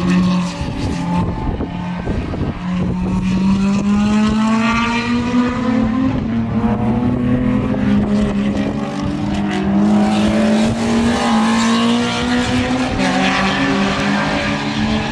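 Several race car engines under hard acceleration, their notes overlapping and climbing steadily in pitch as the cars pull away from a sharp corner.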